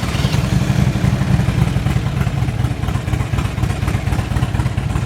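2005 Harley-Davidson Road King's V-twin engine idling steadily through Rinehart true dual exhaust pipes, just after starting up.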